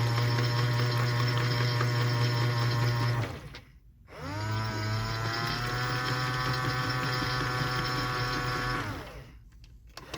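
Washing machine motor turning the drum in two runs. Each run begins with a quick rising whine and settles into a steady hum. A short pause comes between the runs, and the motor winds down near the end.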